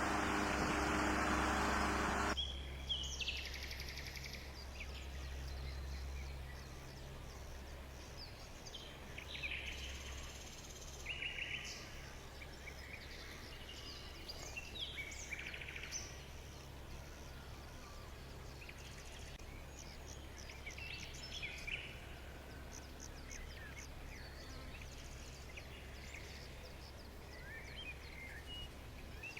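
Small birds chirping and calling in short, scattered bursts over a low steady hum. In the first two seconds a noisy, engine-like rumble covers them, then cuts off abruptly.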